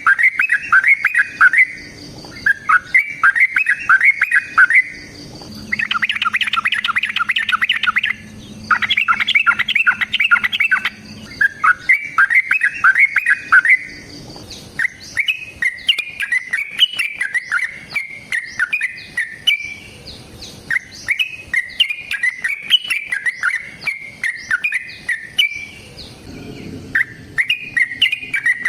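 Yellow-vented bulbul (trucukan) singing a long, fast chattering song: bursts of rapid bubbly chirps about two seconds long with short breaks, running on unbroken from about halfway.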